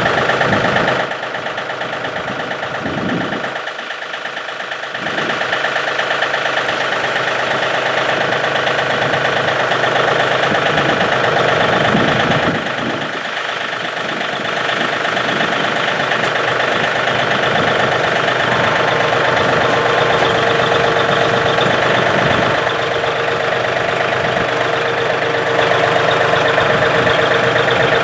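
A John Deere tractor's Yanmar diesel engine idles just after a start made with its intake preheater. Its level dips briefly a few seconds in and again about halfway through, then holds steady.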